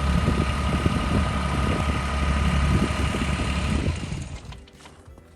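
Engine of the snow-clearing machine running steadily at a low rumble with a faint whine, then dying away about four seconds in.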